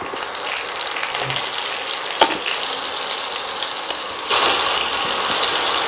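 Potato chunks frying in hot oil in a nonstick pan, a steady sizzle. A single click about two seconds in, and the sizzle gets louder about four seconds in.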